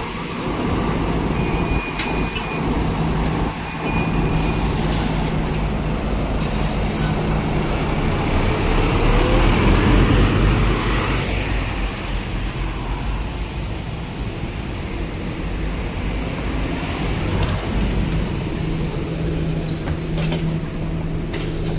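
Large diesel city bus engine running, its low rumble building to a peak about ten seconds in, then settling back to a steady idle.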